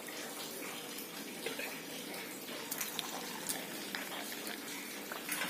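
A rice-flour pathiri sizzling as it deep-fries in oil over a low flame: a steady hiss with a few small pops scattered through it.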